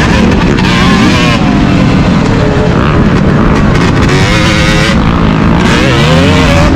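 Motocross dirt bike engine running hard and loud, its revs climbing and dropping several times.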